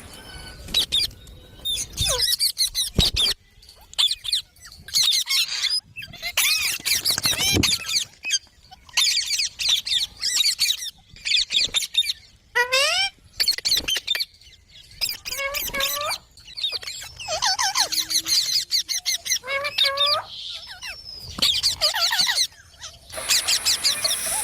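Parrots calling in quick bursts of high, squeaky chirps and squawks that slide up and down in pitch, with short pauses between the bursts.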